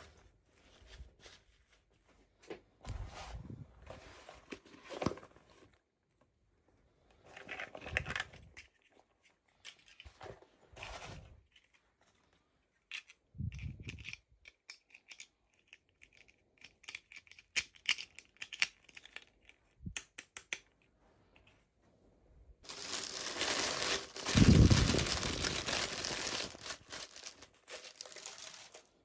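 Toy packaging being torn open and crinkled by hand, in short bursts with pauses between them. Near the end comes a longer, louder stretch of tearing and crinkling.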